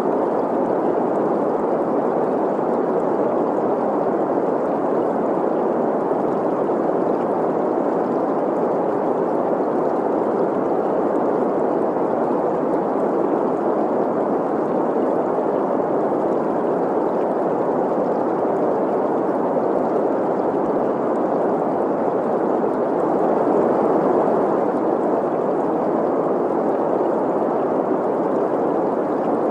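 Green noise, an even steady hiss centred in the middle range, mixed with the running and gurgling water of a stream.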